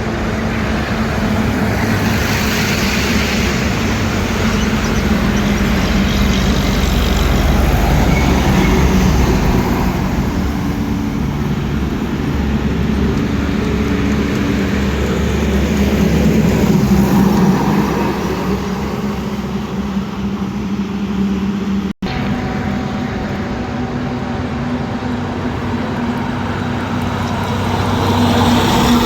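Heavy trucks passing on a highway: diesel engines running and tyre noise swelling as each goes by. The sound cuts out for an instant about three-quarters through.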